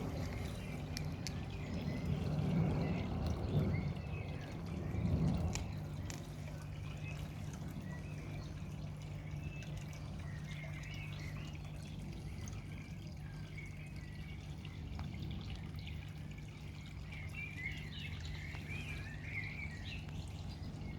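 Water trickling and dripping at a fish pond in the rain, over a steady low hum. Birds chirp in the background about halfway through and again near the end.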